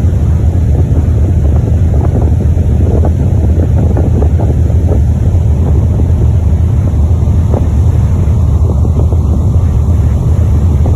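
Strong wind buffeting the microphone over a steady low rumble aboard a ferry, with irregular crackling gusts throughout.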